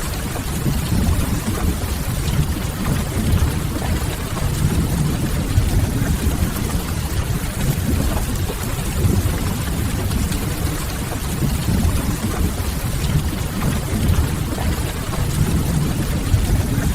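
Steady rain mixed with a wood fire crackling in a fireplace, over a constant low rumble.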